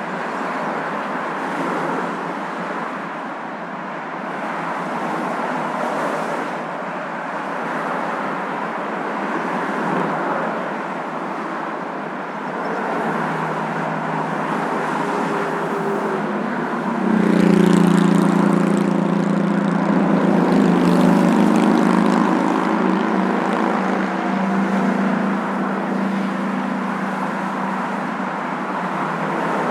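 Moving car noise: a steady rush of road and engine sound. About 17 seconds in, a louder engine hum made of several steady low tones comes in and holds.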